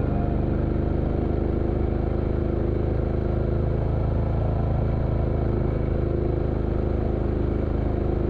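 Motorcycle engine running at a steady, even pitch as the bike rides along.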